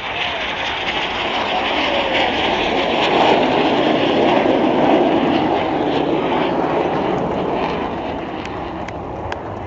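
Jet noise from BAE Hawk T1 jets flying past: a loud rushing sound that swells to its loudest about four seconds in and then slowly fades.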